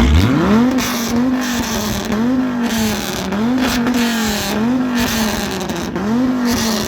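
Car engine revving: it rises sharply at the start, then is blipped up and down about once a second.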